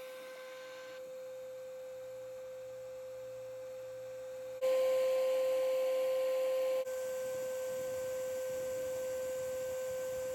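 A steady, unwavering electronic tone with a few faint overtones, held without a break; it turns louder for about two seconds a little under halfway through, then drops back.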